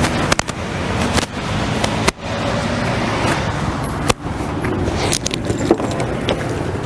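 Car engine running steadily amid street noise, with several sharp clicks or knocks.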